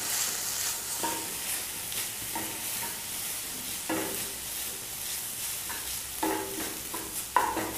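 Grated banana and spice masala sizzling in oil in a non-stick kadai while a plastic spatula stirs it. Short scraping strokes of the spatula against the pan come every second or two.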